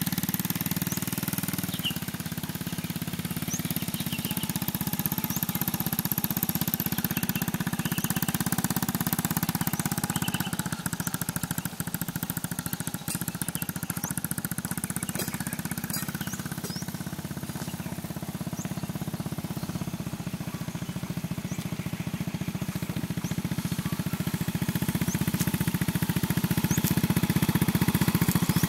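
Antique motorcycle engine running steadily with a rapid, even firing pulse, growing louder over the last few seconds.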